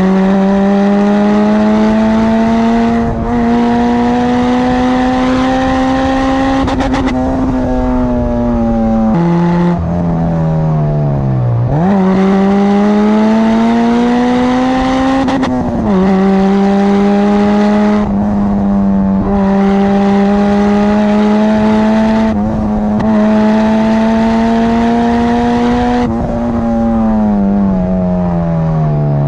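Honda Civic Type R EP3's four-cylinder engine running hard at high revs. Its pitch climbs steadily through each gear and drops sharply at each upshift, every three to four seconds. About ten seconds in, the revs fall away as the car slows and then climb again.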